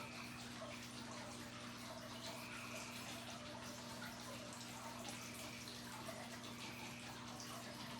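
Quiet room tone with a steady low hum and a few faint, soft swishing sounds.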